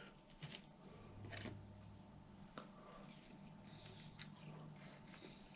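Near silence: soft chewing with a few faint, short clicks spread through it.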